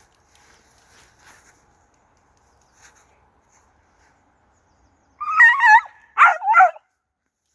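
Jagdterrier giving three high-pitched, wavering yelps about five seconds in: one longer cry followed by two short ones.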